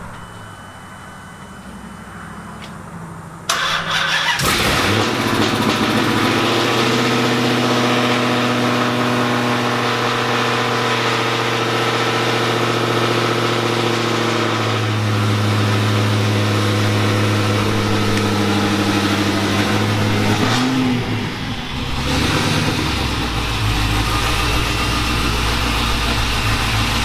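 Freshly built supercharged 6.2-litre Hemi V8 of a Dodge Challenger SRT Hellcat on its first start: it fires about three and a half seconds in and runs at a steady fast idle, then settles to a lower, deeper idle about twenty-two seconds in.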